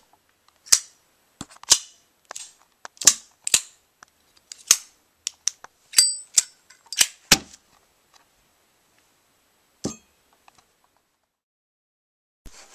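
A quick, irregular run of sharp clicks and taps through the first seven or so seconds, one near the middle with a brief metallic ping, then a single click a couple of seconds later.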